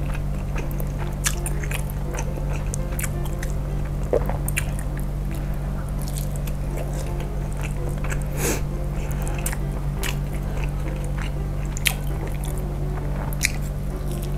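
Close-up chewing and wet mouth smacks of someone eating a soft mozzarella-stuffed beef meatball, with many short, sharp clicks scattered throughout. Steady background music plays underneath.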